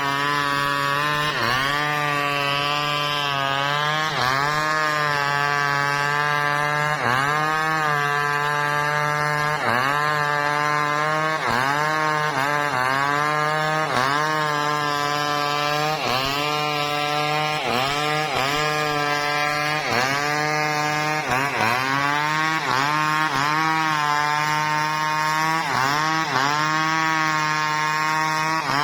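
Two-stroke chainsaw cutting wood under load. The engine runs near full throttle, its pitch dipping and climbing back every second or two as the chain bites.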